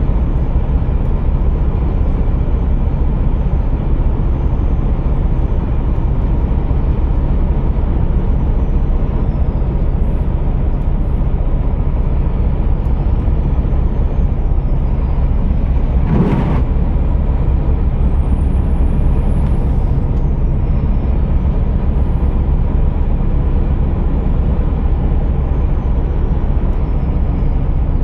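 Scania R480 truck's 13-litre straight-six diesel engine running steadily, with a faint high whine that rises and falls. A brief loud burst cuts through about sixteen seconds in.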